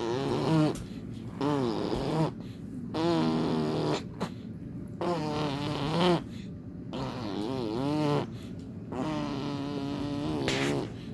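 Arm farts: a person blowing with lips pressed against a bare arm, making a string of about seven fart noises, each about a second long and wobbling in pitch.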